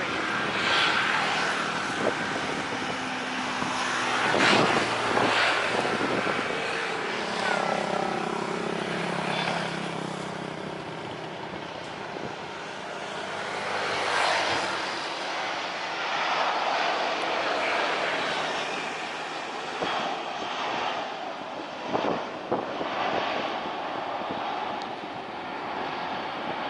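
Jet airliner engines running as the plane passes, a steady rushing noise with a low drone that falls in pitch.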